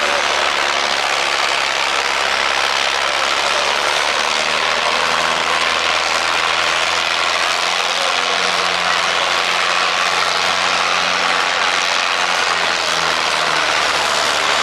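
Vintage farm tractor's engine running steadily and loud, its pitch shifting a little.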